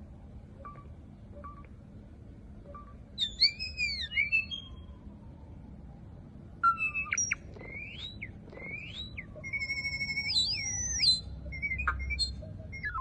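A bird calling: bursts of high whistled chirps and long whistles that sweep up and down in pitch, in two bouts, over a low steady background hum.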